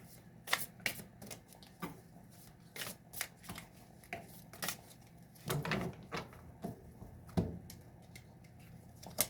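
Tarot cards being shuffled and handled: scattered light snaps and taps, with a couple of heavier knocks about five and a half and seven and a half seconds in.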